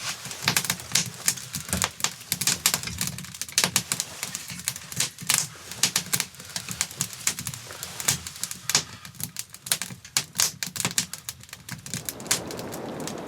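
Dense, irregular crackling and snapping: many sharp cracks a second over a low rumble. Near the end it gives way to a steady rushing hiss.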